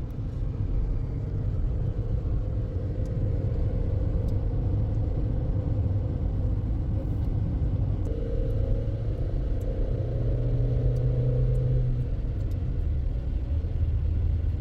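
Steady low rumble of a motor vehicle running, with a faint steady hum.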